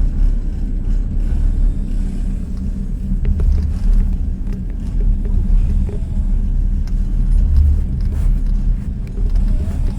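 Steady low rumble of a moving passenger train heard inside a sleeper carriage, with the low end swelling a few times.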